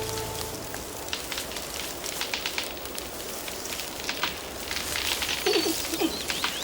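Continuous crackling rustle of leaves and twigs as a giant panda cub moves about in a tree, made up of many small snaps and clicks, with a brief wavering call about five and a half seconds in.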